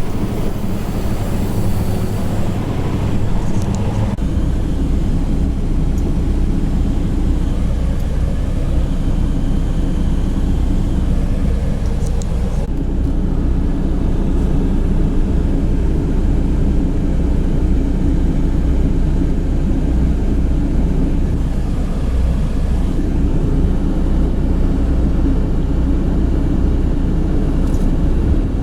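Steady low rumble of a semi truck's diesel engine, heard from inside the cab, with a few faint ticks and small shifts in the noise.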